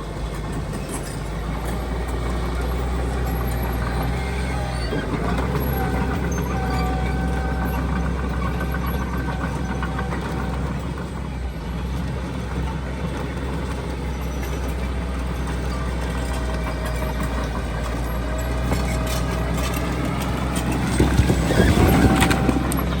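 Heavy diesel engines of earthmoving machinery, dump truck and bulldozer, running steadily with a deep drone. A louder rush of noise comes near the end.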